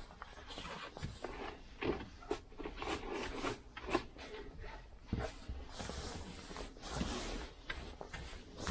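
Objects being handled and shifted about on a workbench: scattered light knocks mixed with rubbing and scraping.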